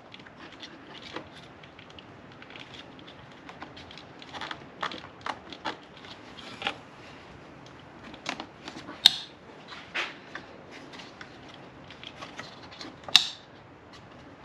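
Irregular light clicks, taps and rattles of hand work with tools and plastic parts in a car's engine bay, with two sharp, louder clicks about nine and thirteen seconds in.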